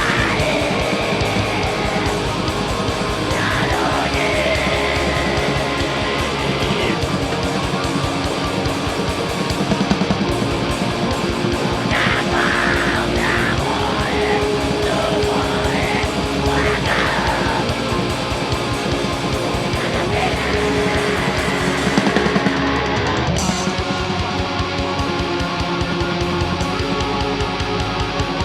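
Live heavy metal band playing: distorted electric guitars, bass and drums, with held vocal or lead-guitar notes in places.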